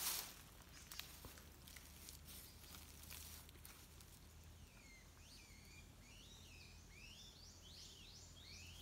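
Quiet ambience: a few faint rustles and clicks in the first seconds, then from about halfway a bird singing a run of repeated whistled notes that sweep up and down.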